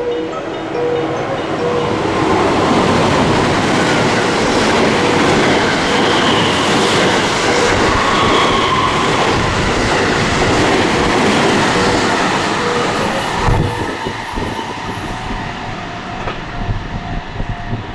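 Train passing through a station platform at speed without stopping: a loud, steady rush of wheels and cars that builds about two seconds in and fades out near the end.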